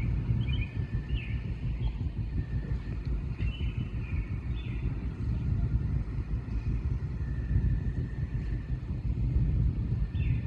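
Low, uneven rumble, with faint short high chirps now and then.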